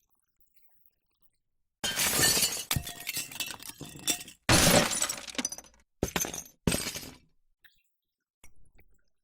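Glass shattering four times in succession: two loud smashes, each trailing off in a scatter of tinkling shards, then two shorter breaks close together. A faint clink follows near the end.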